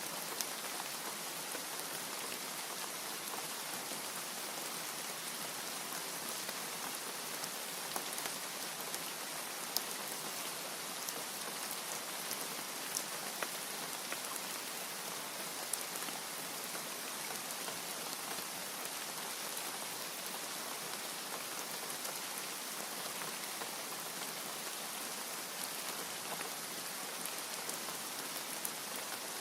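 Steady rain falling, an even hiss of drops with a few louder single drop ticks scattered through it.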